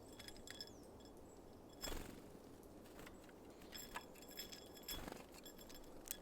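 Small birds at a seed feeder: faint, quick clicks and pecking ticks with thin high chips, and two brief flutters of wings about two and five seconds in.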